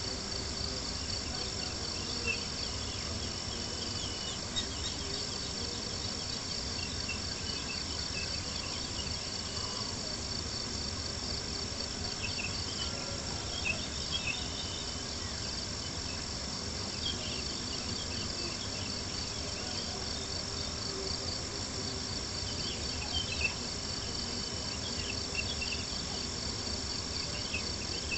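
Steady chorus of crickets chirping in a fast, even trill, over a soft continuous hiss, with a few sharp pops from a crackling campfire scattered through.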